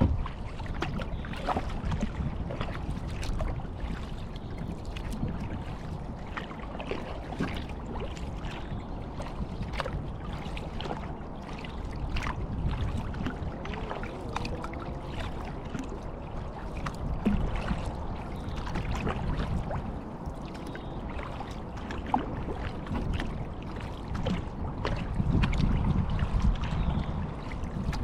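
Kayak paddle strokes: water splashing and dripping off the blades in many small patters, over a low wind rumble on the microphone. A few louder swells of splashing come in the second half.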